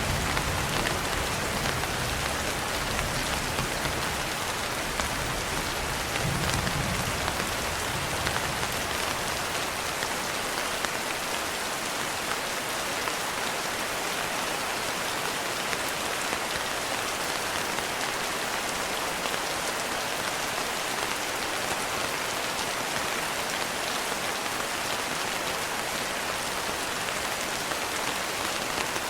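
Steady rain falling as a dense, even patter. A low rumble of distant thunder dies away over the first several seconds.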